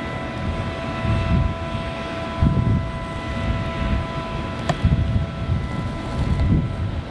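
Private jet on the tarmac: a steady, high whine with several tones, over irregular swells of low rumble, and a single sharp click about two-thirds of the way in.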